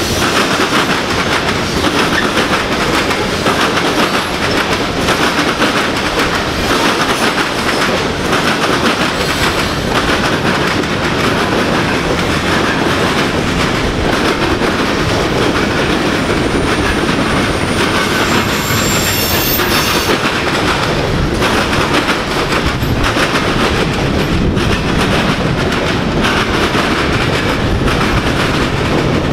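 Freight cars of a manifest train (covered hoppers, a centerbeam flatcar, boxcars) rolling past: a steady rumble of steel wheels on rail with a constant clickety-clack over the rail joints. A brief high wheel squeal comes in about two-thirds of the way through.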